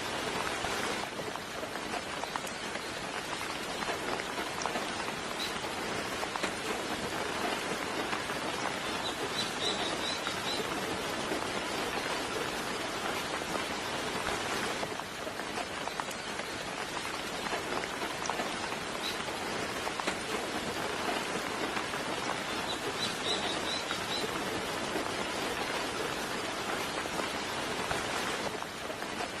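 Steady soft rain falling, with two brief clusters of faint high bird chirps, about a third of the way in and again about three-quarters of the way through.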